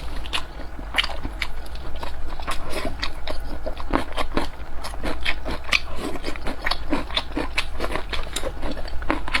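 Close-up chewing of a soft steamed dumpling: irregular wet mouth clicks and smacks, several a second, over a steady low hum.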